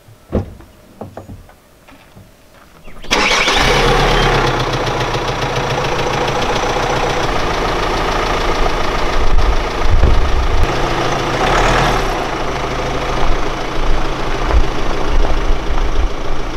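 Volkswagen Amarok's engine starting about three seconds in, then running steadily at idle.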